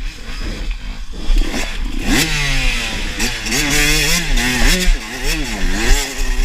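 Dirt bike engine revved up and down over and over, its pitch rising and falling repeatedly from about two seconds in, with knocks and clatter over it.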